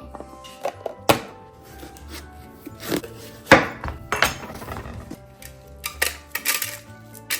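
Background music with a steady low line, under a handful of separate clinks and knocks of containers and food items being handled and set down. The loudest knock comes about halfway through.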